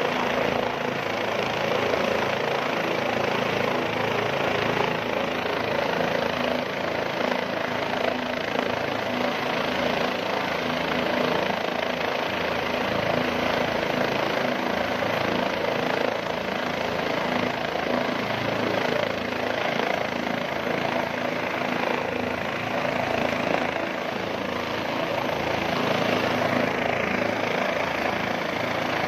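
A steady engine drone with a rushing noise, running evenly without a break.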